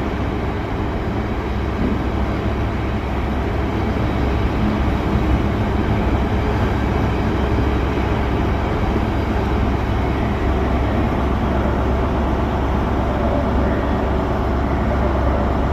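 Class 66 diesel locomotive hauling a freight train of wagons loaded with sleepers past at steady speed: a continuous low rumble of the engine and the wagons on the rails.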